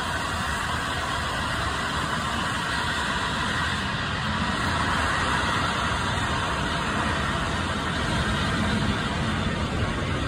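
Passenger train pulling slowly out of the station, a steady rumble of rolling coaches and engine noise that grows a little louder.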